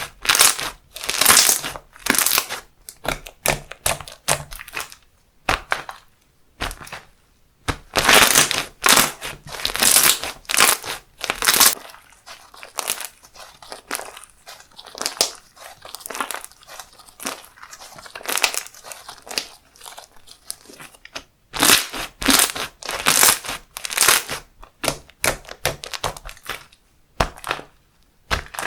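Handmade slime being squished, pressed and poked by hand, giving irregular clusters of crisp crackles and pops, sparser through the middle stretch.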